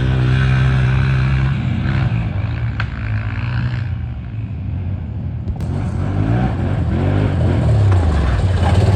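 ATV engine running at a steady pitch, then revving up and down several times in the second half.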